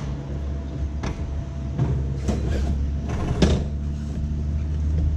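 Wiegand alpine coaster sled running downhill on its steel rails: a steady low rumble from the wheels, broken by four sharp knocks.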